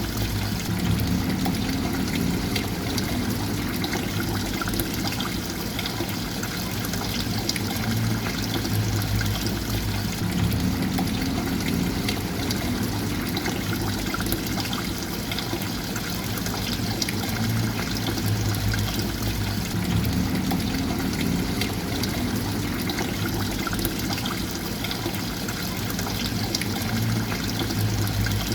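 Continuous flowing, trickling water, steady throughout, with a low hum underneath whose pattern repeats about every nine to ten seconds.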